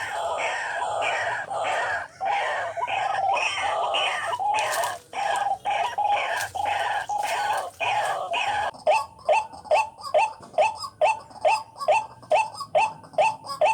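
White-breasted waterhen (ruwak-ruwak) calling: a dense run of harsh repeated calls, then from about nine seconds in a steady series of short notes about three a second.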